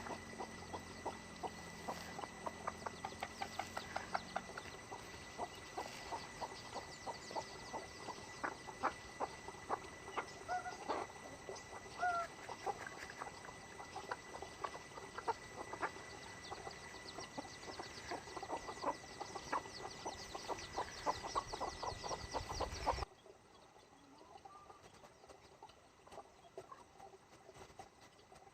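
A flock of chickens, with many quick ticks and a few short calls and clucks. About 23 seconds in the sound suddenly drops much quieter and carries on faintly.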